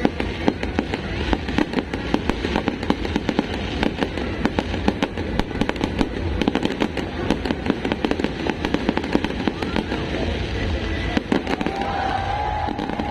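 Fireworks going off in a rapid, continuous barrage of bangs and crackles, thinning out near the end as music and voices come through.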